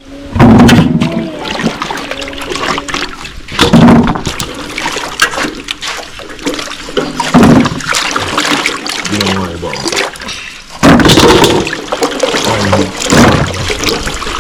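Water splashing and pouring in repeated loud surges.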